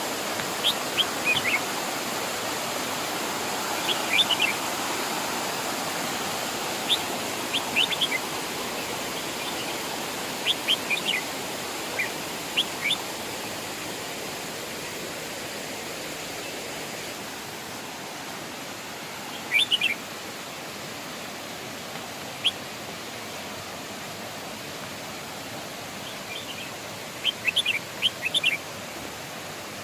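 Steady rush of a waterfall, with a small bird giving short, sharp chirps in quick clusters every few seconds over it.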